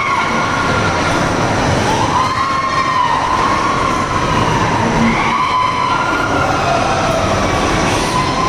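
Amusement ride running on its track, with a loud steady rumble and a squealing tone that rises and falls again every second or two.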